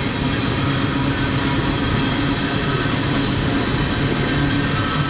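BNSF freight train rolling past: a loud, steady rumble of wheels on rail with a steady hum mixed in, unchanging throughout.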